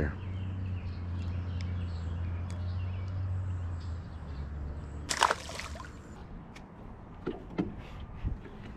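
Water sloshing with one sharp splash about five seconds in, over a low steady rumble that fades about four seconds in; a few small knocks follow near the end.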